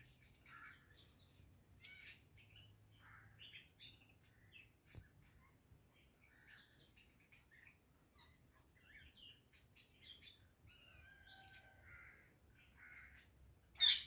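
Birds chirping and calling on and off in many short faint calls, with one short, loud, sharp call just before the end.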